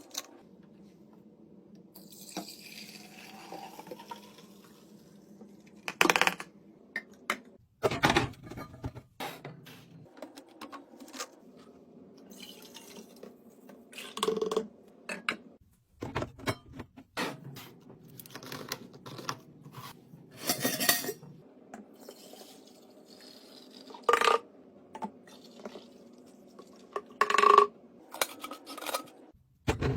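Drink bottles, cans and containers clinking and knocking as they are handled and set into a fridge, a string of separate knocks of varying loudness over a faint steady hum.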